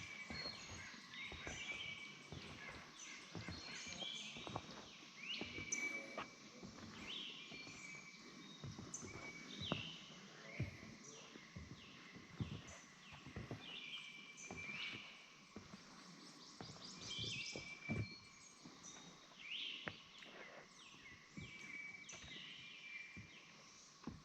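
Several birds singing and calling, short falling chirps repeated again and again, over the steady hum of a swamp forest, with irregular soft footsteps.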